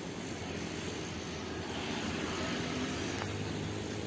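Steady engine rumble with a hiss and a low hum, growing slightly louder near the end.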